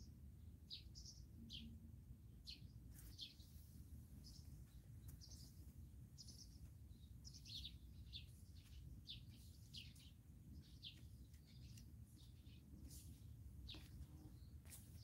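Faint chirping of small songbirds: many short, high, downward-sliding calls, often several a second, over a steady low rumble.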